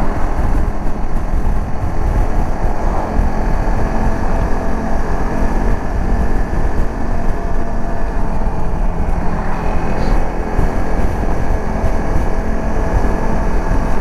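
Dirt bike engine running steadily while the bike is ridden along the road.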